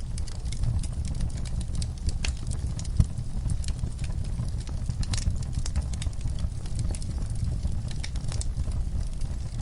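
Fire burning in a fireplace: a steady low rumble of flames with frequent sharp crackles and snaps, and one louder pop about three seconds in.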